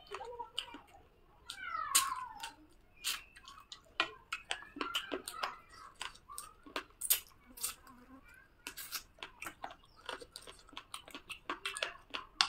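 Chewing and wet mouth smacks of someone eating rice and curry by hand, many sharp clicks a second. About two seconds in, a short call falling in pitch is the loudest sound.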